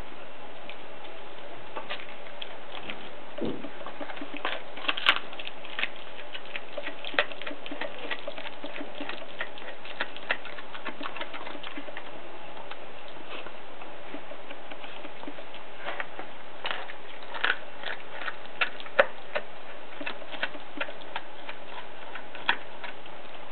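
Young Groenendael dog chewing and crunching raw bones, irregular sharp cracks and clicks of teeth on bone, coming in busier clusters.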